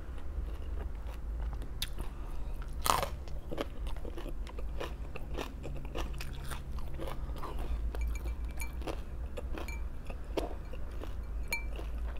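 A person biting and chewing crunchy raw vegetables close to the microphone: a run of crisp crunches, with one sharper bite about three seconds in, over a steady low hum.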